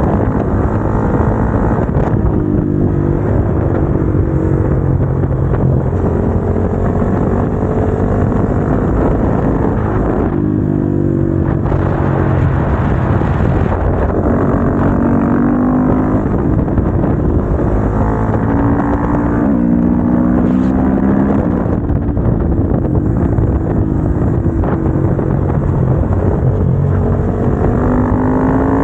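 Motorcycle engine heard onboard while riding, its pitch climbing and falling again and again with throttle and gear changes, and briefly dropping away about ten seconds in.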